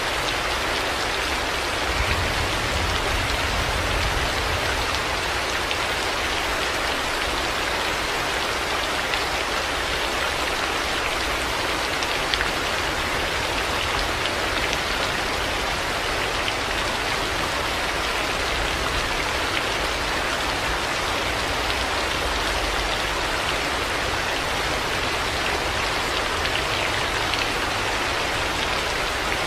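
Heavy rain falling steadily, a dense hiss of drops on hard surfaces. A low rumble swells underneath from about two seconds in and fades a few seconds later.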